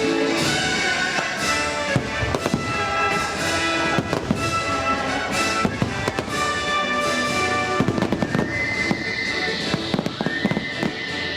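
Fireworks show: many bursts and crackling pops in quick succession over orchestral music.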